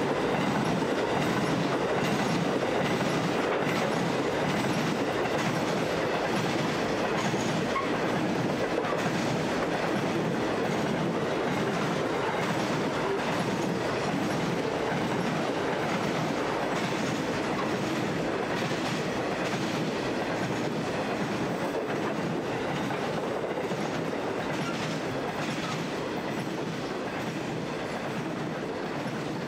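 A long freight train of loaded grain hopper wagons rolling along, its wheels rumbling and clicking over the rail joints in a steady rhythm, slowly getting quieter.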